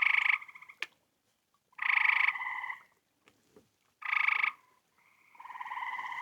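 Frogs calling: four short trilled calls, each under a second long, with gaps of a second or so between them.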